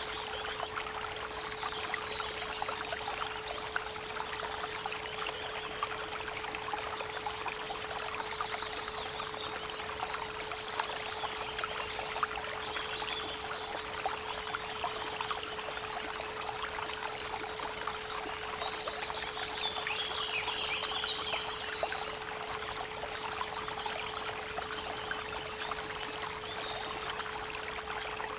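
Creek water babbling steadily, with songbirds chirping now and then, over a continuous 432 Hz pure tone.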